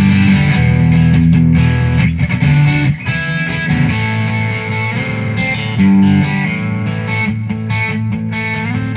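Fender Aerodyne electric guitar on its bridge Seymour Duncan Phat Cat P90-style pickup, played through a Bad Cat Cub tube amp with a distortion pedal on: distorted, sustained chords and notes ringing out.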